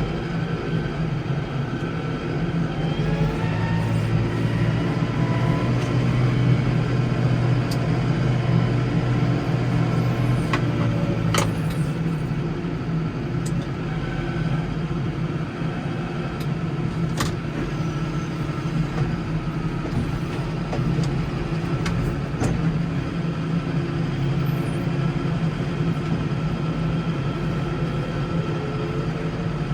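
Case 115U garden tractor's engine running steadily while plowing snow. Its low hum deepens and strengthens for several seconds early on, then settles. A few sharp clicks and knocks are heard over it.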